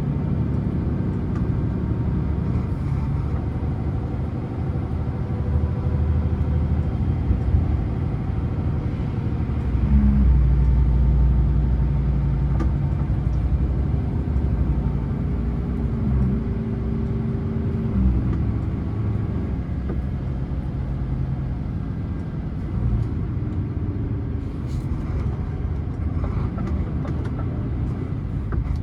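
Scania truck's diesel engine running on the move, a low steady rumble whose pitch steps up and down a few times. It is loudest about a third of the way in.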